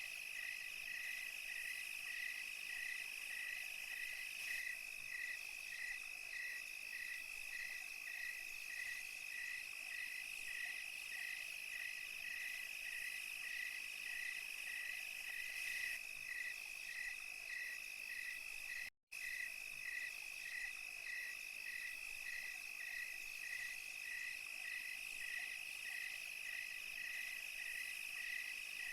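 Chorus of night insects, crickets among them: a continuous high trill with a repeating chirp roughly one and a half times a second over it. About two-thirds of the way through, everything drops out to silence for a split second and resumes.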